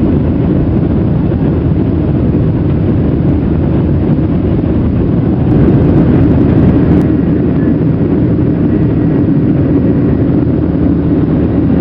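Steady, loud jet noise from a Boeing 737-800's CFM56-7B turbofan engines, a deep even rumble that does not change.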